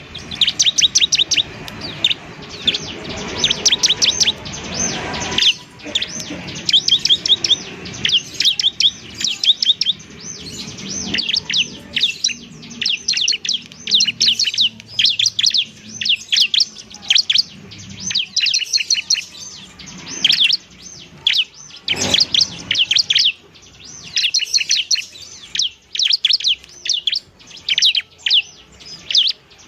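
Bar-winged prinia (ciblek) singing: rapid runs of high, sharp chirps in bursts of a second or two, one burst after another with short gaps.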